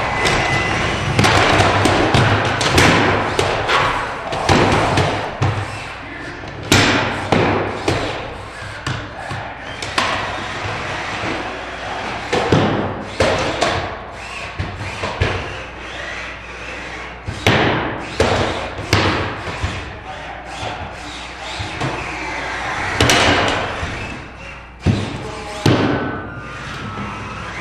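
Two 30 lb featherweight combat robots fighting, with repeated heavy thuds and slams as they hit each other and the arena, coming at irregular intervals over a continuous noisy background.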